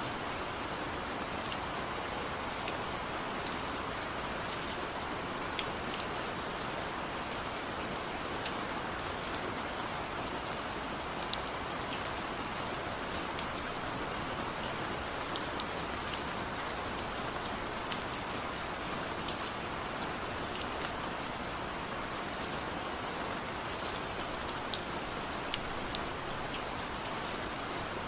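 Steady rain falling, an even hiss with scattered sharp drip ticks of individual drops hitting a surface.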